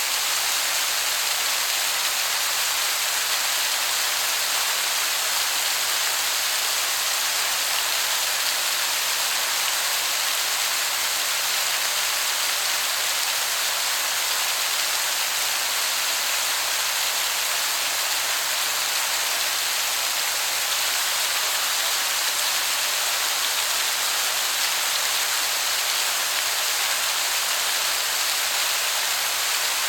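Waterfall giving a steady, even rush of falling water, hissy and high, that sounds much like heavy rain.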